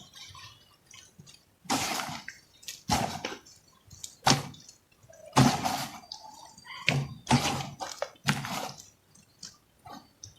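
Crumbly molded chunks being broken and crushed by hand, about seven separate breaks a second or so apart.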